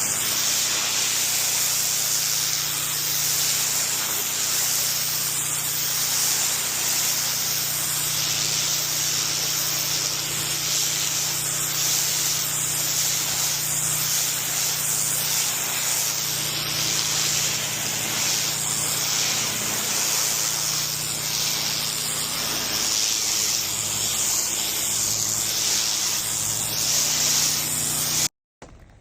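A steady spraying hiss, liquid forced through a nozzle, with a steady low hum underneath. It stops abruptly just before the end.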